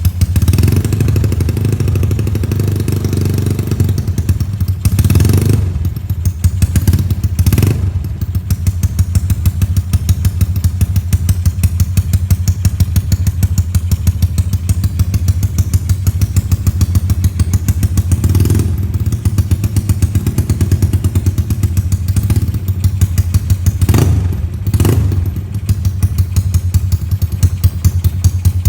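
Yamaha Mio scooter's 155cc single-cylinder engine idling through an aftermarket SPS exhaust, with an even, loud pulse. The throttle is raised for a few seconds at the start, then blipped briefly several times, with two sharp blips near the end.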